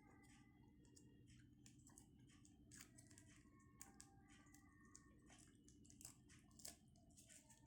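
Faint close-up eating sounds: scattered soft clicks and small crunches of someone chewing siomay and fried batagor, with a few sharper clicks.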